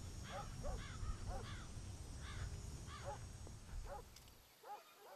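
A bird giving short, harsh arched calls in quick series, about two a second at first and then thinning out. A low rumble underneath cuts off abruptly near the end.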